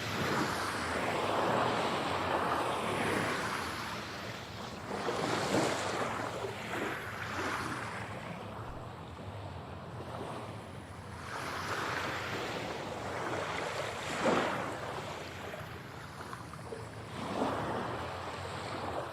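Ocean waves breaking and washing onto a shore. The surf swells and recedes in several surges, with the sharpest splash a little past the middle.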